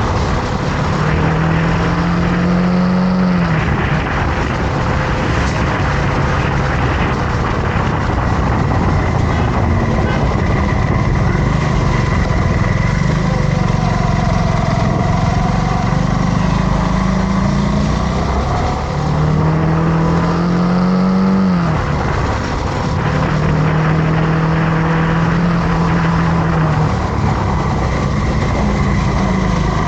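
Motorcycle engine running under way, its pitch climbing and then dropping sharply twice, about three seconds in and again about twenty-one seconds in, over a steady rushing noise.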